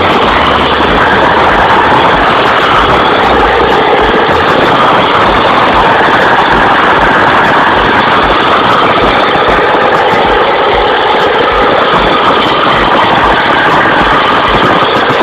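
Truck engine running loud and steady under load.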